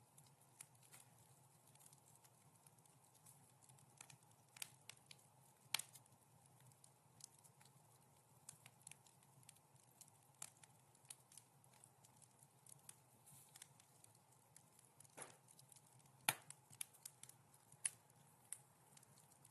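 Wood fire crackling softly: irregular small snaps and pops over a faint, steady low rumble, with a louder pop about sixteen seconds in.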